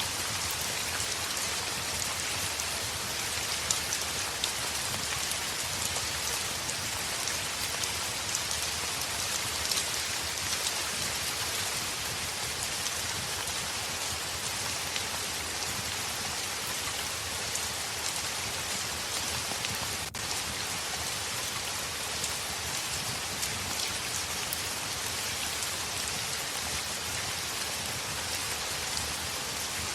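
Heavy rain falling steadily: a dense, even hiss of drops with scattered small ticks from individual drops striking a surface.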